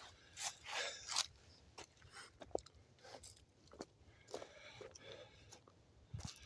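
Footsteps crunching on rough ground at a walking pace, about two crunchy steps a second.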